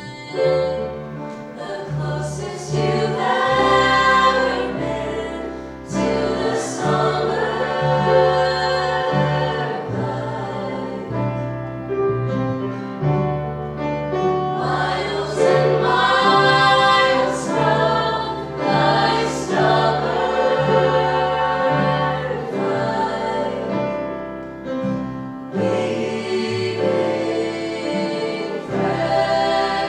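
A group of voices singing together in harmony over instrumental accompaniment, with steady low notes changing every second or two.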